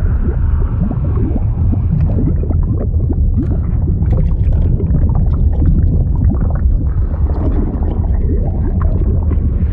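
Fluid sound effect: a deep, steady rumble with dense bubbling and gurgling pops over it.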